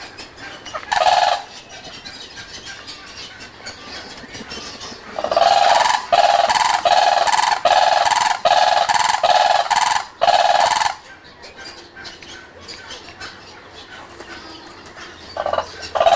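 A bird calling loudly: one short call, then a long run of rapidly repeated calls, about two a second for some five seconds, and another call near the end.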